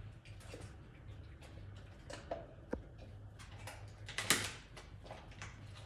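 A dog chewing and gnawing on an object held in its mouth: scattered small clicks and scuffles, with a louder rustling scrape about four seconds in, over a low steady hum.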